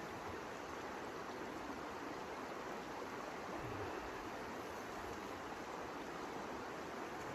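Steady, even rushing noise with no separate events, like storm wind or falling precipitation.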